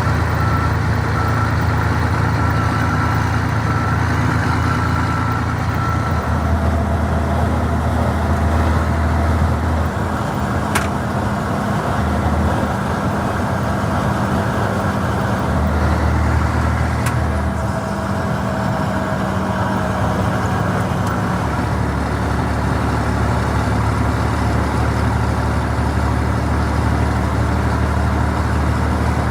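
Scania 113 truck's diesel engine running with a steady low drone that swells and eases a few times. Two sharp clicks come through, one about eleven seconds in and one about seventeen.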